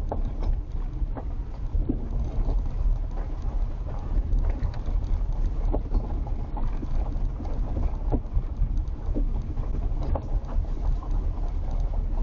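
Vehicle driving on an unpaved road, heard from inside: a steady low rumble with frequent small knocks and rattles.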